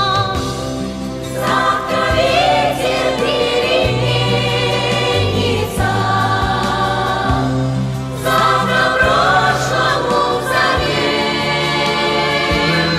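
Music: a choir singing over instrumental accompaniment, with no clear words.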